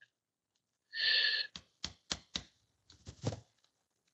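Hand tools tightening a small fastener on the armature assembly: a short metallic scrape about a second in, then four sharp clicks in quick succession and a duller knock.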